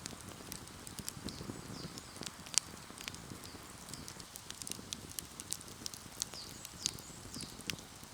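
Wood fire crackling, with irregular sharp pops and ticks scattered over a low, steady rush of burning.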